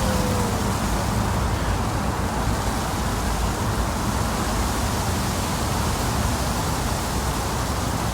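Steady rushing outdoor noise, with a low engine hum fading out in the first second or so.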